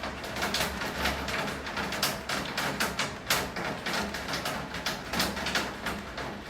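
Rain falling, with large drops tapping irregularly on a hard surface several times a second over a steady hiss and a low hum.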